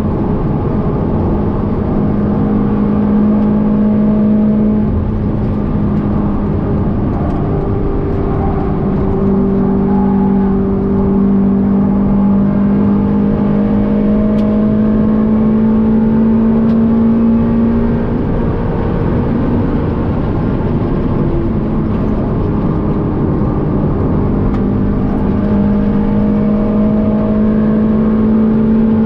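Mazda MX-5 NC's BBR Super 225 tuned 2.0-litre four-cylinder on individual throttle bodies, heard from inside the cabin running hard at high revs on a track lap. The note climbs slowly in pitch, dipping and picking up again a few times, most clearly around 18 seconds in.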